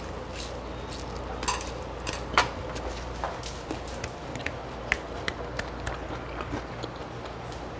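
Close-up chewing of crisp fried food: irregular small crunches and clicks, one louder crack a little over two seconds in, over a steady low room hum.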